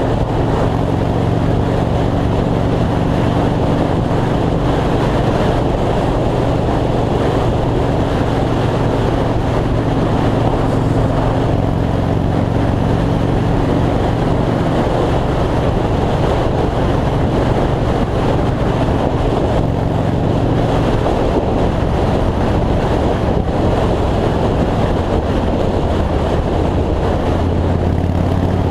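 2003 Yamaha Road Star's air-cooled V-twin engine running steadily at highway speed, under heavy wind rush over the microphone. The engine note drops lower near the end.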